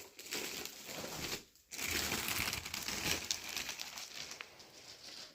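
Packaging crinkling and rustling as the coffee machine is unwrapped and lifted from its box, in two stretches with a short pause about one and a half seconds in, fading near the end.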